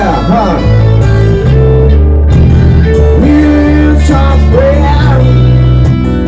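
Live band music with guitar, a steady bass line and a voice singing held notes.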